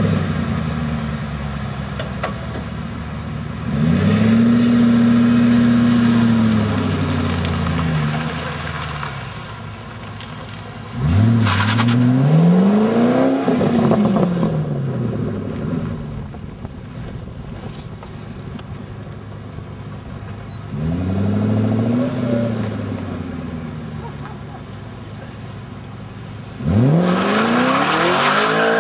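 Roadster's engine revving hard and easing off again in repeated surges of acceleration, about four times, with quieter stretches between. Near the end it climbs steeply to high revs.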